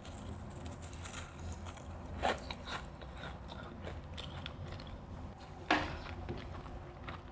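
Refrozen crushed ice being bitten and chewed close to the microphone: a run of crisp crunches, with two louder bites, one about two seconds in and one near six seconds in.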